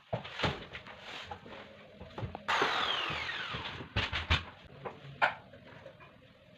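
Sharp knocks and taps of carpentry work, with a short loud burst from a power tool about halfway through whose pitch falls as it winds down.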